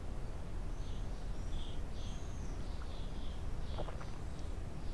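Steady low background rumble with faint, scattered high chirps of small birds.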